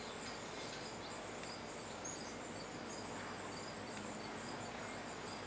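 Quiet backyard ambience: a steady low hiss with faint, short high-pitched chirps scattered through it.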